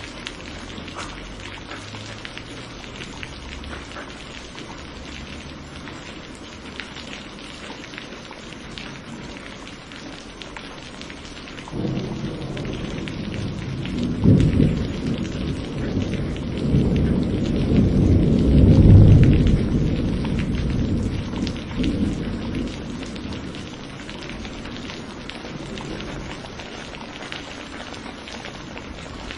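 Thunderstorm: steady rain falling throughout, with a long roll of thunder that breaks in suddenly near the middle, swells to two loud peaks and rumbles away over about ten seconds.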